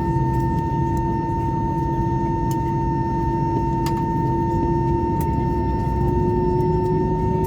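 Airbus A320's CFM56 engines at idle, heard inside the passenger cabin. A steady low rumble carries a high, even whine, and a lower hum that creeps slightly up in pitch about six seconds in.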